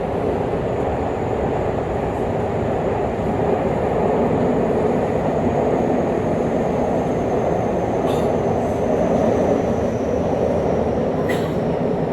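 Tobu 50000-series electric train running between stations in a subway tunnel, with a steady rumble of wheels and motors. A faint high whine falls slowly in pitch throughout, and two short clicks come about 8 and 11 seconds in.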